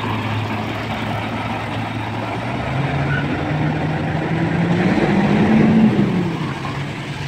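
Garbage truck's diesel engine idling, then revving up in two steps, loudest about six seconds in, before easing back down.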